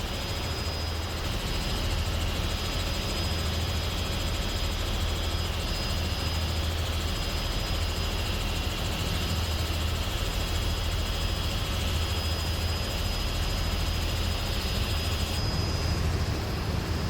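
Helicopter in flight: the rotor and engine drone steadily with a low pulsing beat and a constant high whine.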